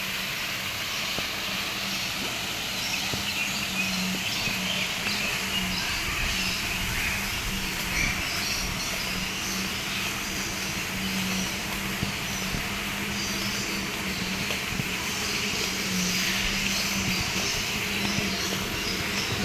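A steady low mechanical hum, swelling slightly now and then, over outdoor background noise, with faint short chirps at times.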